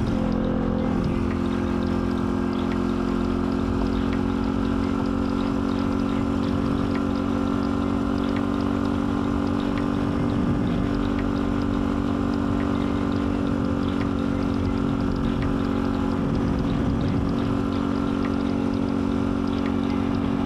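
Dirt bike engine running at a steady, even speed while riding, with small shifts in pitch about halfway through and again a few seconds before the end.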